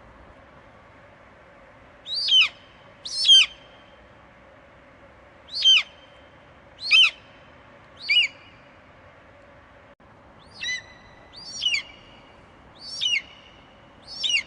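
Eagle screeching: nine short, sharp calls, each falling in pitch, spaced irregularly about a second apart and beginning about two seconds in, over a faint steady hiss.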